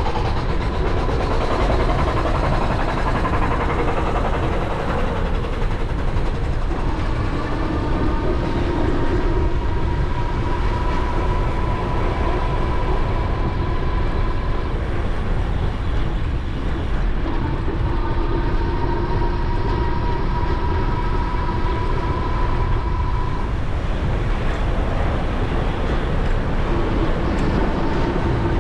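Wind rushing over the action camera's microphone while riding an e-bike, with the electric motor whining in stretches, its pitch climbing slowly each time as the bike gathers speed.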